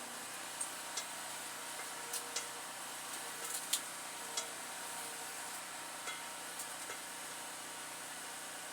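Kitchen food preparation: scattered light clicks and taps over a steady hiss.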